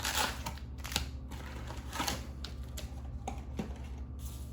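Trading cards and foil booster packs being handled: a few short rustles and light clicks, roughly one a second, over a low steady hum.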